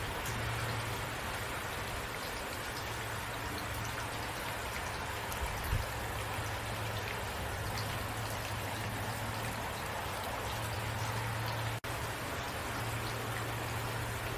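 Steady rain falling, an even hiss of drops with scattered individual drop ticks. There is a soft thump a little before six seconds, and the sound cuts out for a split second just before twelve seconds.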